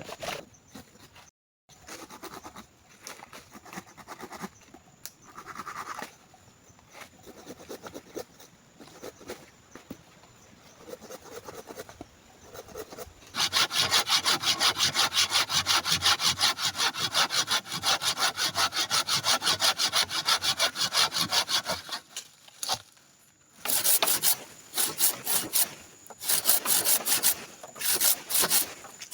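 Hand saw cutting wood in quick back-and-forth strokes. The first half holds only quieter scattered handling noises. About halfway in, a long, loud, steady run of sawing starts. After a short break near the end, the sawing goes on in shorter runs.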